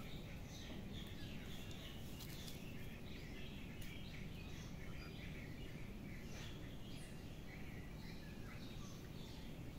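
Small birds chirping, many short calls scattered throughout, over a low steady rumble of background noise.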